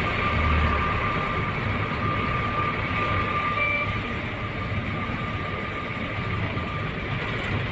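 Truck on the move: steady engine and road noise, with a faint steady whine.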